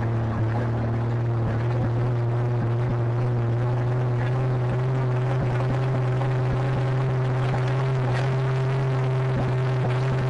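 A tractor engine running at a steady speed with a deep, even hum, its pitch creeping up slightly near the end.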